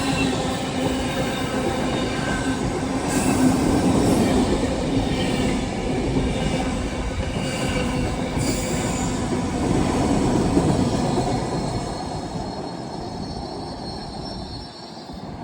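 Long freight train's wagons rolling past with wheel squeal, a steady rumble under several high-pitched squealing tones. It fades out near the end.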